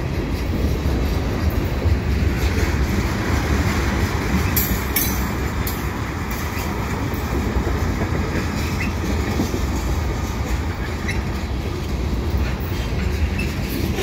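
Freight cars of a slow Canadian National mixed freight train rolling past: a steady rumble of steel wheels on rail, with a few brief sharp high-pitched noises about five seconds in.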